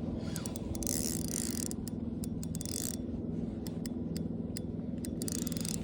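Fishing reel working during the fight with a largemouth bass: irregular clicking of the reel's mechanism with a few short hissy rushes, over a steady low hum.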